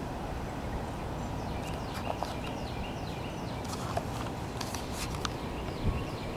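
Steady outdoor background noise with faint, short, high chirps scattered through it.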